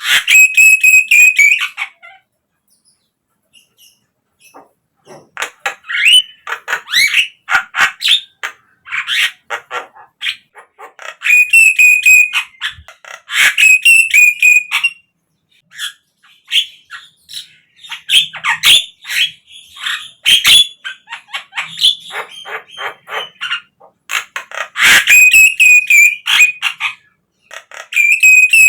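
Javan myna calling in bouts of harsh, chattering notes mixed with a repeated whistled note, broken by short pauses of about two seconds. It is a lure song of the kind played to prompt caged Javan mynas into full song.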